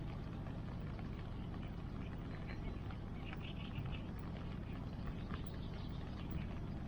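Bonfire crackling with small, irregular pops and ticks over a steady low rush of water from the river and rain.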